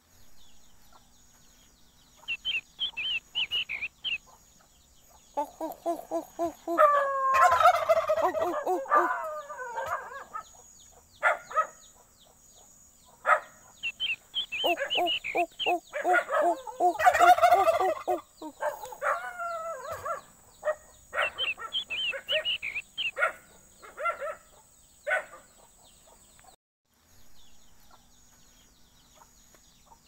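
Fowl calling: two loud, rapid rattling, gobble-like calls, about seven and seventeen seconds in, with short sharp chirps and clucks between them.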